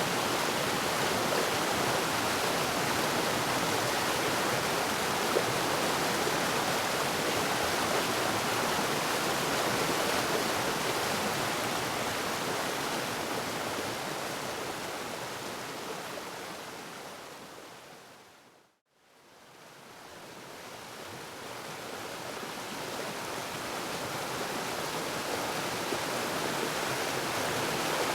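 Waterfall rushing steadily, an even wash of falling water. About two-thirds of the way through it fades out to silence for a moment, then fades back in over the next several seconds.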